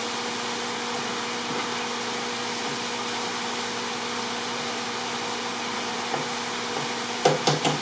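Chicken tikka sizzling steadily in a large pan: an even frying hiss with a faint hum under it.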